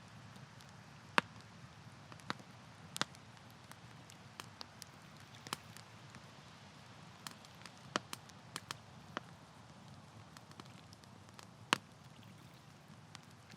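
Campfire burning with a soft low rush and irregular sharp crackles and pops from the burning wood, a few each second at most.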